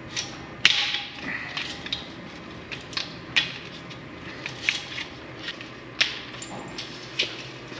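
Irregular light clicks and knocks, about half a dozen sharp ones spread unevenly, as of parts and tools being handled and set in place.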